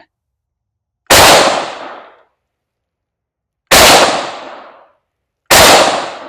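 Three rifle shots from a Yugoslav SKS semi-automatic firing 7.62×39 mm rounds, spaced a few seconds apart: about a second in, near the middle, and near the end, each with a ringing tail of about a second.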